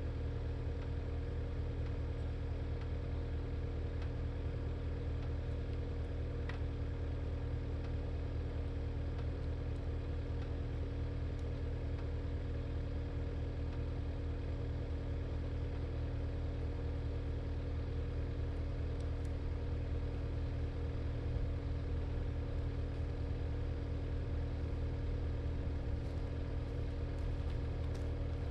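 Cat 259D compact track loader's diesel engine running steadily at an even speed, with no revving.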